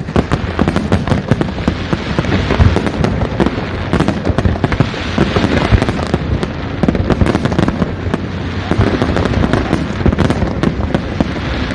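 A fireworks display going off without pause: many bangs and crackles overlapping in a dense, continuous barrage.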